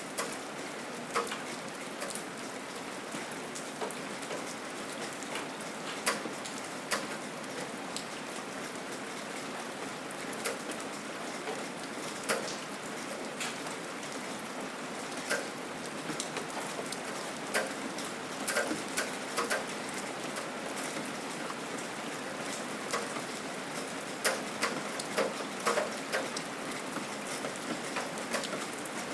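Steady gentle rain falling, an even hiss with frequent distinct drops hitting nearby surfaces at irregular intervals.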